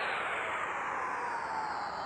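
Boeing 787 jet engines spooling down: a whine that slowly falls in pitch over a steady rush of air and engine noise as the airliner slows.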